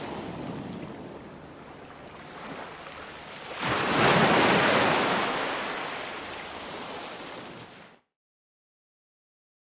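Ocean waves breaking on a shore, with one wave crashing loudest about four seconds in and washing away. The sound cuts out suddenly about eight seconds in, leaving dead silence to the end.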